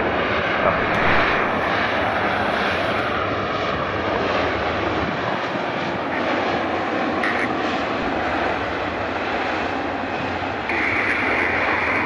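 Jet airliner's engines running, a steady, even noise that holds at one level.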